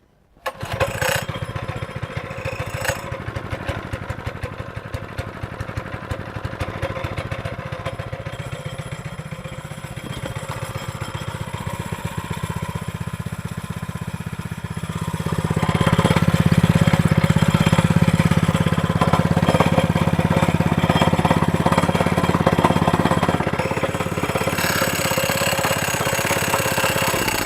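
Honda-engined Wacker plate compactor starting up about half a second in and running steadily, with its engine growing louder and heavier from about halfway through.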